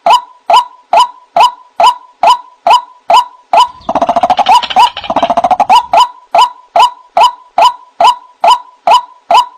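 White-breasted waterhen giving its repeated 'kru-ak' call at an even pace of about two and a half calls a second, each call dipping in pitch. From about three and a half seconds in, a denser, louder burst of rapid overlapping calls runs for about two seconds before the even rhythm returns.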